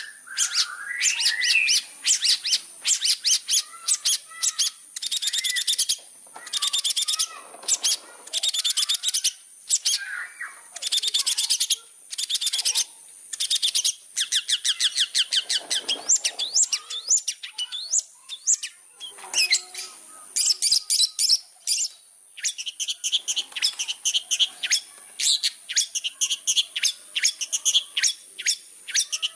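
Long-tailed shrike (cendet) in full song: a fast, varied stream of sharp repeated notes broken by several harsh chattering runs lasting about a second each. A steady high tone runs underneath.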